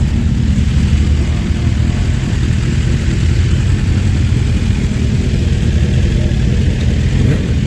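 Motorcycle engines idling together in a steady low rumble.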